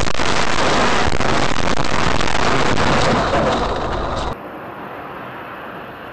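Car crash captured on a vehicle camera: a loud, noisy din of impact that holds for about three seconds and then eases. About four seconds in it cuts off abruptly to much quieter road noise.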